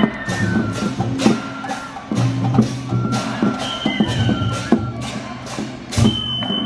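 Chinese-style festival ensemble music: regular percussion strikes, two or three a second, under a high melody of held notes that step from one pitch to the next.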